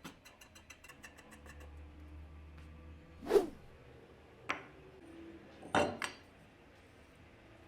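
Hand work on parts in a small workshop: a quick run of light clicks, then four sharp knocks, the loudest about three and a half seconds in and the last two close together near the end.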